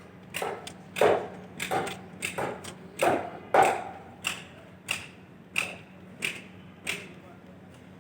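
Hammer blows on a construction site: a quick, uneven run of strikes, then evenly paced blows about every two-thirds of a second. The later blows ring, and they stop about seven seconds in.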